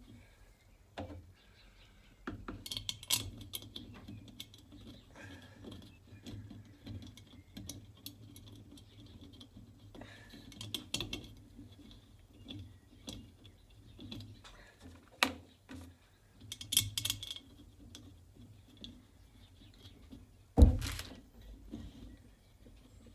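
Metal parts and tools being handled: intermittent clinks, rattles and jingling knocks, with one loud thump near the end.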